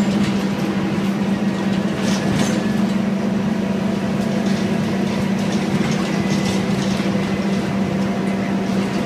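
Scania N230UD bus engine running at a steady speed, a constant low hum with a few light rattles over it.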